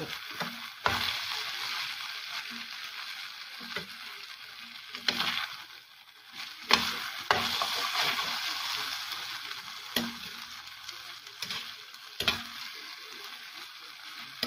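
Beef strips and onion chunks sizzling as they fry in a stainless steel pan, stirred with a utensil that scrapes and knocks against the pan several times.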